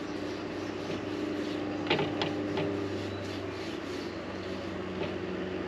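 A small electric motor running steadily with a level hum, with a few sharp clicks about two seconds in.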